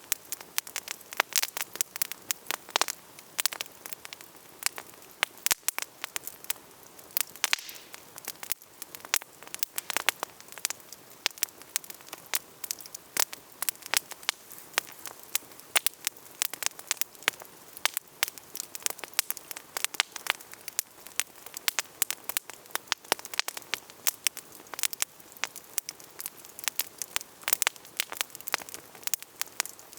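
Wood campfire burning and crackling steadily, with many sharp irregular pops and snaps over a soft hiss.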